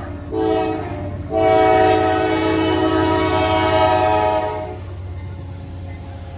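Locomotive air horn sounding a multi-note chord: a short blast, then a long one of about three seconds, closing the long-long-short-long pattern of a grade-crossing warning. The train's low, steady running rumble continues under it and after it stops.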